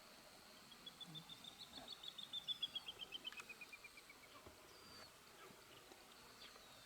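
A wild bird calling: a quick series of short clear notes, about six a second, rising slightly then falling in pitch over roughly three and a half seconds. A faint steady high insect drone sounds underneath.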